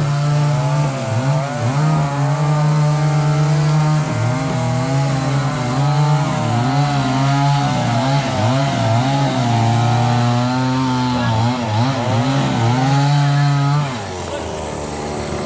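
Chainsaw running at high revs, its pitch dipping and recovering again and again as the chain bites into wood, then stopping near the end.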